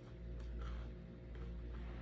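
Someone eating, with a few faint mouth clicks and soft chewing smacks over a steady low hum.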